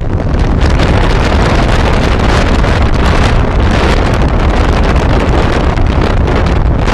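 Loud, steady rushing noise of wind buffeting the microphone, heaviest in the low end.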